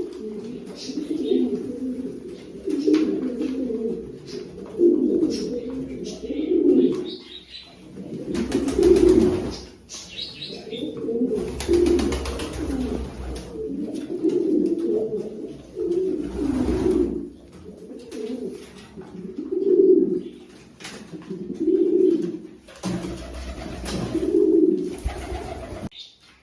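Pigeons cooing repeatedly, deep throaty coos about every one to two seconds, with a few short bursts of rushing noise.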